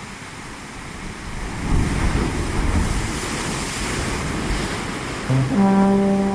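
Ocean surf rushing and swelling, louder from about a second and a half in. Near the end, music comes in with a held note.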